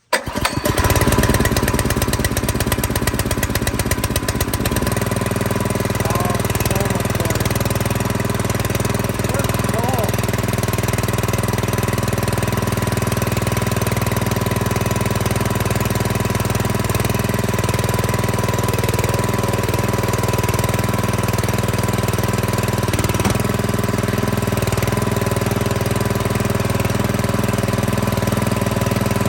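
New Predator single-cylinder small engine on a wood splitter starting at once with the choke set and the throttle at mid, running unevenly for about five seconds, then settling into a steady, even run.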